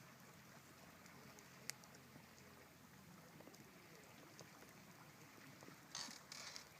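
Campfire crackling faintly, with scattered small pops, one sharp pop about two seconds in, and a denser burst of crackling near the end.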